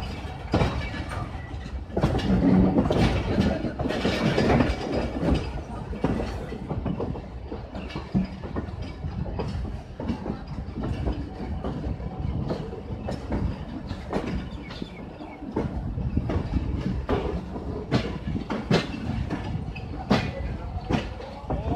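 Passenger train coach running at departure speed: a steady rumble with an uneven clickety-clack of wheels over rail joints, heard from beside the coach. It is loudest about two to five seconds in.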